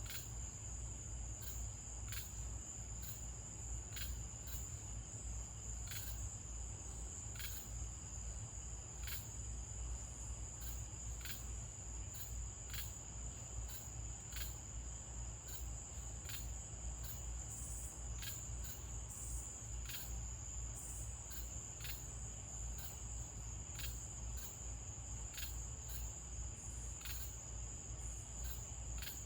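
Night-time crickets trilling in a steady, continuous high-pitched chorus, with faint clicks every second or two.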